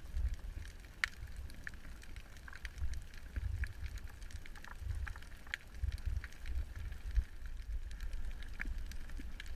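Underwater sound picked up by a camera housing's microphone: a low, muffled rumble of moving water with scattered crackling clicks throughout.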